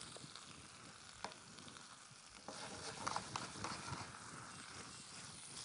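Spinach and mushrooms frying in a pan over high heat, a faint steady sizzle that grows a little louder about halfway through, with a few light clicks of a spatula stirring in the pan.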